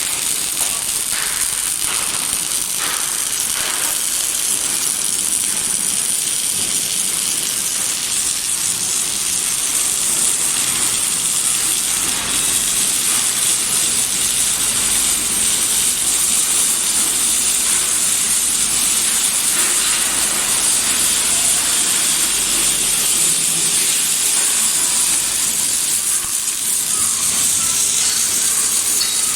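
Robotic arc welding: a steady frying, crackling sizzle from the welding arc, running continuously at an even level.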